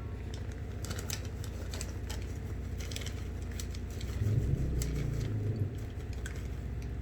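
Popcorn bag being opened and handled: scattered crinkles and crackles of the packaging, with a low muffled sound partway through.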